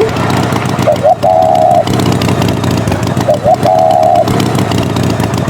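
Tractor engine running steadily. Twice, a couple of short rising chirps are followed by a held higher tone lasting about two thirds of a second.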